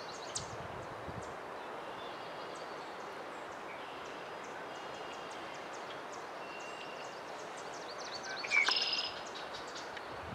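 Small birds chirping, with many short high calls over a steady hiss, and a louder cluster of calls about eight and a half seconds in.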